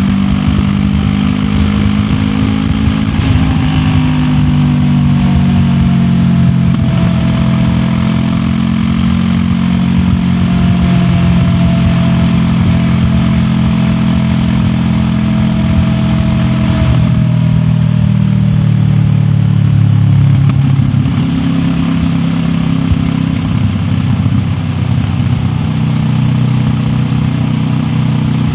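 QJ Motor SRT 700X parallel-twin engine running under way, with a steady road-and-wind hiss. The engine note drifts slowly with the throttle and drops lower about two-thirds of the way through.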